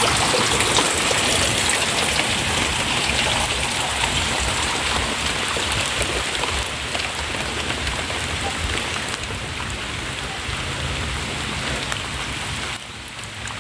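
Steady rushing hiss of falling water, slowly fading and then dropping off suddenly near the end.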